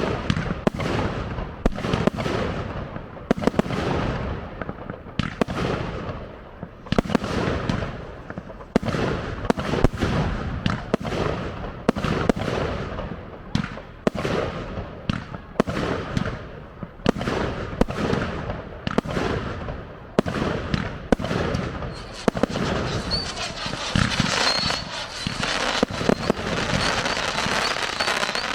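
Fireworks display: aerial shells bursting in quick succession, roughly one or two bangs a second, each followed by a rolling echo. About three-quarters of the way in, a dense crackling with a faint high whistle takes over.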